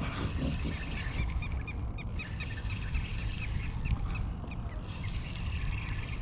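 Wind rumbling on the microphone, with a run of short, faint chirps repeating about three times a second through the middle.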